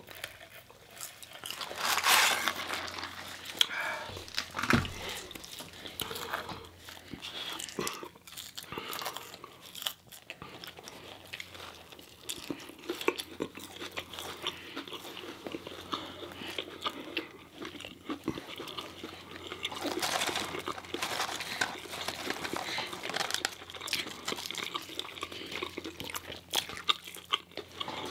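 Close-up eating sounds of McDonald's food: French fries, McChicken sandwiches and chicken nuggets being bitten into and chewed, with irregular crunches and chewing throughout.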